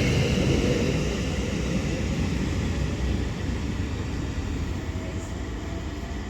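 Doubled-up British Rail Class 730 Aventra electric multiple unit pulling away and running off. The rumble and the high steady tones of the motors fade steadily as it draws away.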